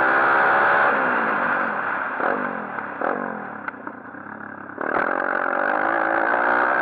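A 140cc pit bike's single-cylinder four-stroke engine at high revs, falling in pitch as the throttle is closed, with two short blips of the throttle. It jumps suddenly back to high revs and runs hard near the end.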